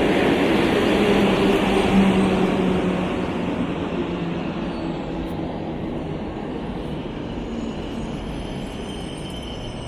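An EIC express train, hauled by a PKP class EP09 electric locomotive, rolls into the station past the listener. It is loudest as the locomotive passes in the first two seconds, with a steady low tone, then the rumble of the passing coaches dies down gradually.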